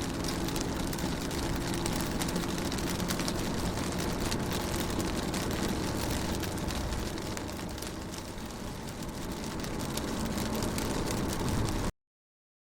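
Rain pattering on a car window, a dense run of small drop impacts over a low steady hum. The sound cuts off suddenly near the end.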